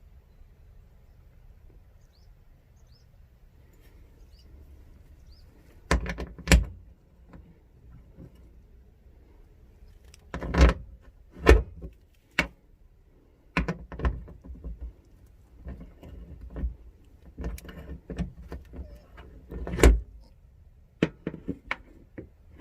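A series of sharp knocks and clunks, irregularly spaced and sometimes in pairs, over a faint low hum.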